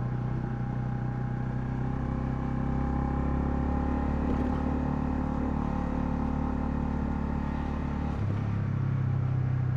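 Honda CL250's single-cylinder engine running steadily under way, heard from the rider's microphone. About eight seconds in the engine note steps up abruptly in pitch as the revs change.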